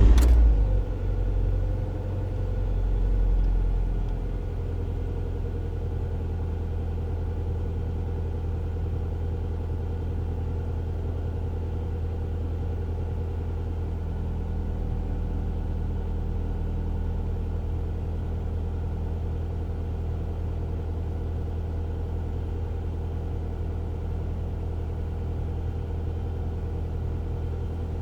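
Car engine just after starting, its level swelling twice in the first few seconds before it settles into a steady idle.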